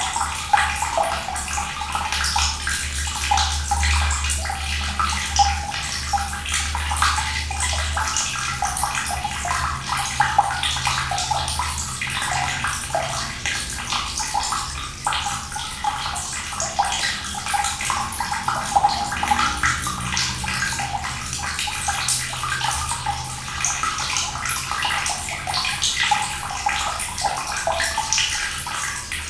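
Cold water running in a steady, splashing stream. A low hum underneath fades out about eight seconds in.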